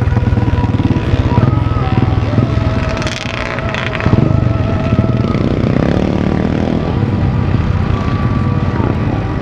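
Several motocross bike engines running and revving on the track, several pitches rising and falling at once as riders open and close the throttle. There is a brief louder rush of noise about three seconds in.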